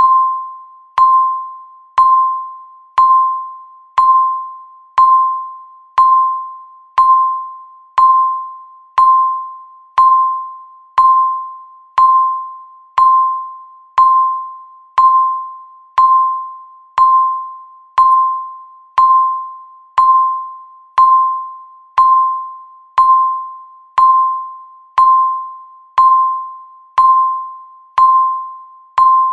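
Countdown timer beep sounding once every second: a single clear tone, each beep starting sharply and fading away before the next.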